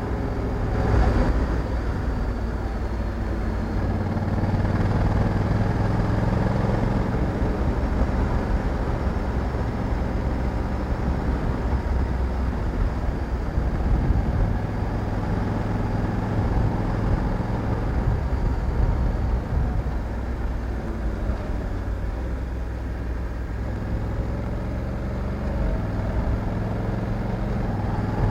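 Honda Africa Twin 1100 DCT's parallel-twin engine running steadily on the move, its pitch and loudness shifting a little, with a brief louder moment about a second in.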